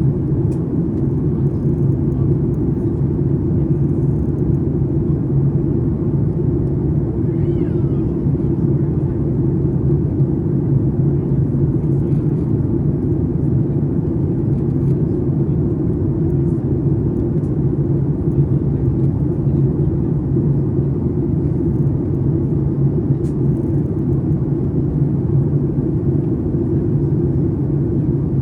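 Steady low rumble of engine and airflow noise inside the cabin of a Boeing 737 MAX 8 airliner, holding an even level throughout.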